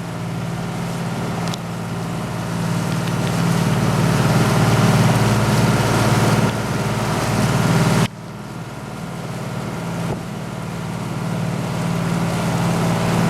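A motor yacht's engines running at slow cruise, a steady low drone with wind and water rush over it. The sound drops suddenly about eight seconds in and builds back up.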